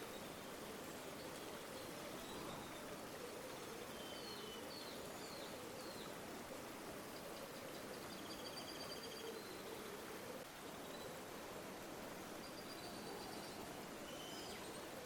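River water flowing steadily with a faint gurgling rush. Faint small-bird calls over it: a few short chirps about four seconds in, and high trills near the middle and again near the end.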